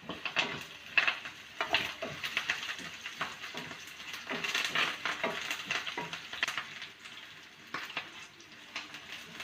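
Onions and curry leaves frying in hot oil, sizzling, while a spoon stirs them, scraping and clinking against the pan at irregular intervals.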